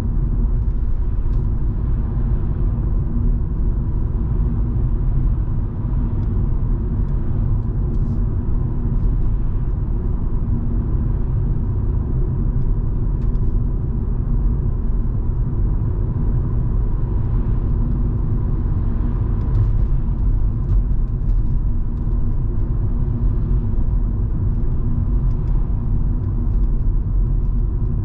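Volvo V70 2.5T's turbocharged five-cylinder engine and tyres making a steady driving rumble, with scattered faint ticks of rain.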